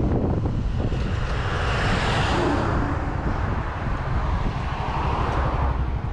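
Motorcycle on the move, recorded from the bike: a steady low engine and road rumble under heavy wind noise on the microphone, with a swell of rushing noise that rises and falls about two seconds in.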